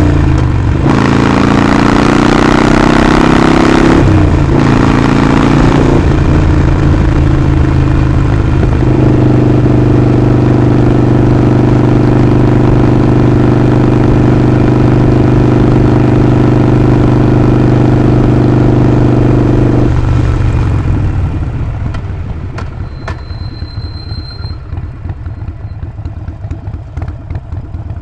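Harley-Davidson Sportster Forty-Eight's 1200 cc V-twin under way: it accelerates through two upshifts in the first few seconds, then holds a steady cruise. About two-thirds through it rolls off the throttle and drops to a lower, pulsing idle.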